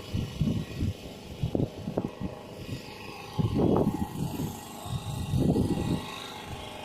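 Wind buffeting a phone's microphone in irregular low rumbling gusts; the strongest come about halfway through and again a second and a half later.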